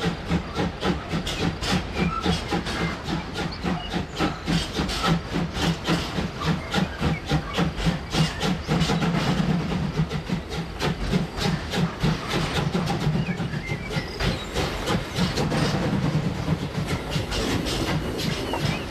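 HO scale model train running on the layout's track, its wheels clicking in a steady rhythm over a low motor hum that swells twice.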